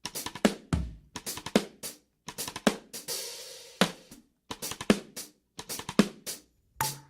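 Drum-kit intro of a pop song: short snare, kick and hi-hat hits in groups separated by brief silences, with a cymbal wash about three seconds in.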